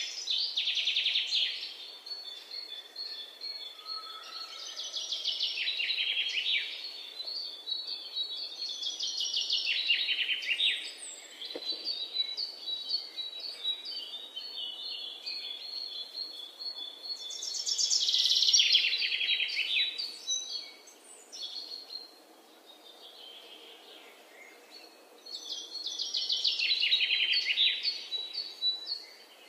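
A songbird singing repeated phrases every few seconds, each a rapid trill that falls in pitch, with thin high notes between the phrases.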